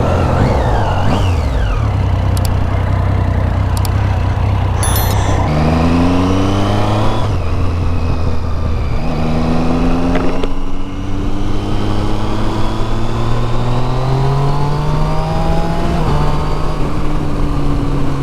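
Triumph Street Triple 675's three-cylinder engine with a loud exhaust, accelerating up through the gears: the pitch climbs in each gear and drops at each upshift, about three times, with wind noise over it.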